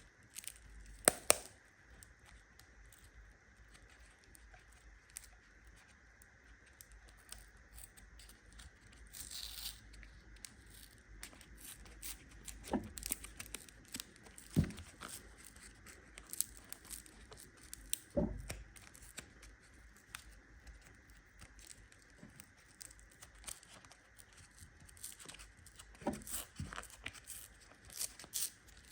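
Plastic wrapper crinkling and tearing open in a run of small crackles, with a few louder knocks as the packaging is handled.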